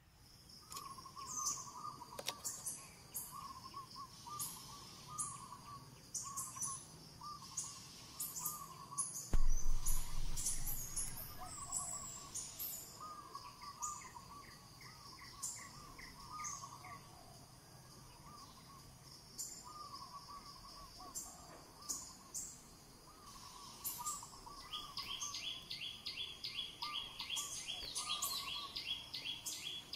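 Birds calling: a repeated warbling call recurs throughout, with scattered high chirps and a fast run of chirps, about six a second, in the last few seconds. A loud low rumble starts suddenly about nine seconds in and fades over a few seconds.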